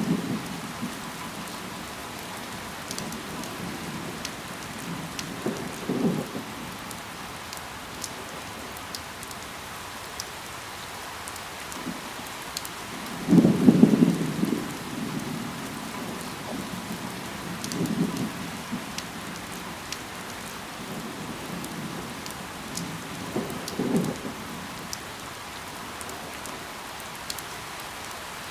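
Steady rain falling, with sharp drop ticks scattered through it. Several brief low rumbles rise out of the rain, the loudest about halfway through, with weaker ones near the start, a few seconds in and towards the end.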